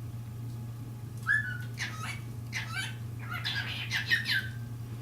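Pet cockatiels chirping and whistling: a short held whistle about a second in, then several quick chirps, crowding together near the end.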